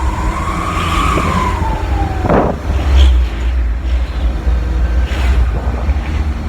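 Truck engine rumbling through a homemade 'srigala' (wolf) exhaust built from a used oil filter, which gives a howl. The howl rises and then falls in pitch over the first two seconds and stops, followed by a short sharp blast.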